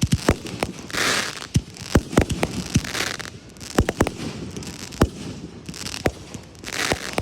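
Fireworks display: a string of sharp booms from shells going off, broken by three spells of dense crackle, about a second in, about three seconds in, and near the end.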